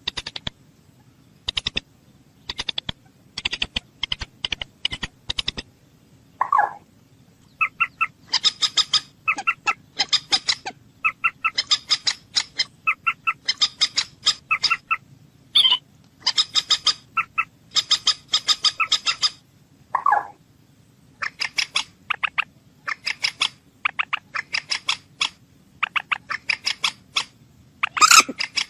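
A bird calling in rapid runs of short, sharp clicking notes, grouped in repeated clusters, with a few lower, drawn-out calls in between.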